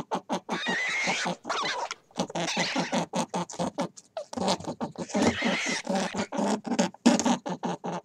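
An animal giving a fast, steady run of short pulsed calls, several a second, with brief breaks about two seconds and four seconds in.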